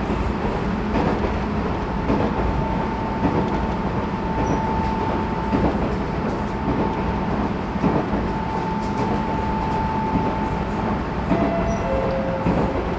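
Tobu 20400 series electric train motor car running at speed, heard from inside the car. A steady rumble of wheels on rail carries occasional clicks over rail joints and a steady high tone.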